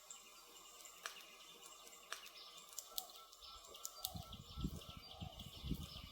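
Wood fire crackling, with sharp pops at irregular intervals. From about four seconds in, low rumbling surges rise under the crackle.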